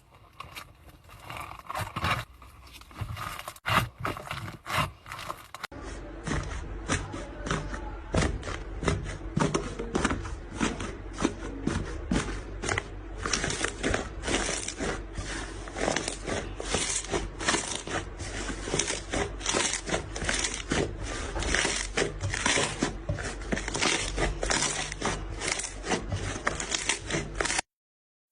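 Slime being squeezed and worked by hand, making rapid sticky clicks and pops, several a second. The sound continues through a cut to another slime clip about six seconds in.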